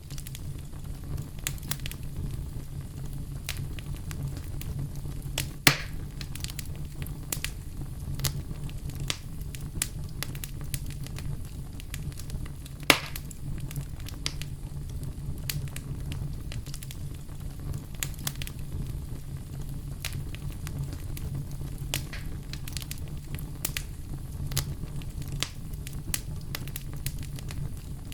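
Campfire burning: a steady low rumble with frequent small crackles and two louder pops, about six and thirteen seconds in.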